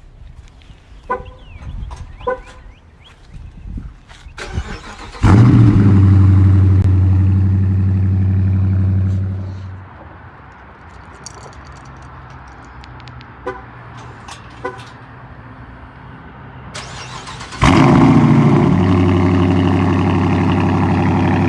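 Dodge Challenger R/T's 5.7L HEMI V8, with its mufflers cut off and straight-piped, started twice. Each time it fires with a sudden loud flare that settles to a steady idle, and the first run is shut off after about four seconds. Two short beeps come a few seconds before the first start.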